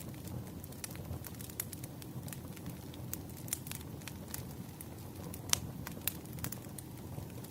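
Wood fire burning: a steady low rumble with scattered sharp crackles and pops, the loudest pop about five and a half seconds in.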